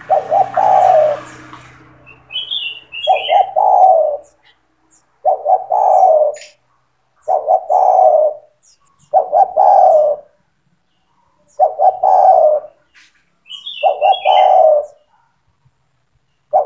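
Spotted dove (tekukur) cooing over and over, a loud multi-note coo phrase about every two seconds. Twice a short run of higher chirps sounds just before a coo.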